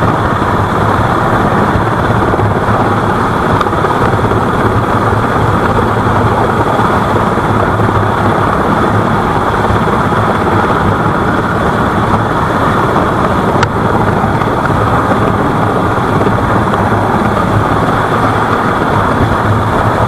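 Engine running steadily at a loud, even level, with a low drone near 100 Hz under a rushing noise.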